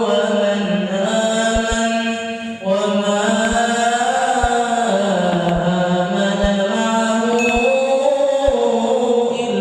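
Background music of wordless chanted vocals over a sustained low drone, the melody rising and falling slowly. Soft low beats come about once a second.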